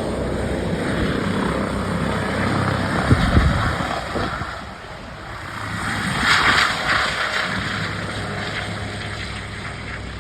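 Airbus H145 rescue helicopter's rotor and turbine noise as it lifts off and flies away. A loud low buffet comes about three seconds in, the sound swells again around six seconds, then fades as it departs.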